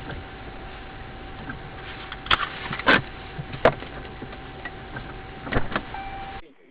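Dash-cam recording of a car on the road: a steady road and engine noise with a constant thin whine, broken by several sharp knocks, the loudest about three seconds in.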